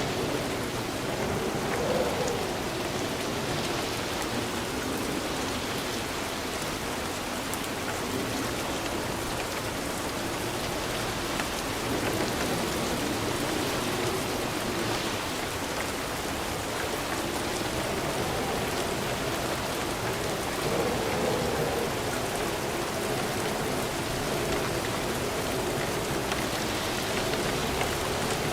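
Steady rain falling, pattering on a surface.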